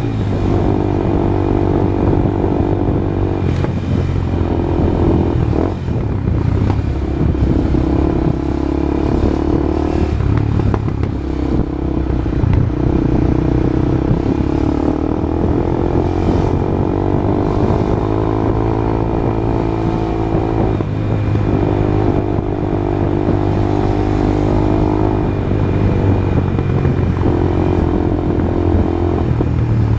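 Honda CB Twister motorcycle's single-cylinder engine running loud and steady through a new exhaust, its pitch easing up and down a little a few times.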